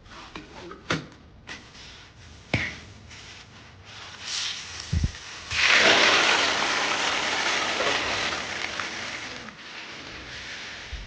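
Hot oil sizzling loudly as food goes into it, starting suddenly about halfway through and slowly dying down. A few light clicks and knocks of kitchen utensils come before it.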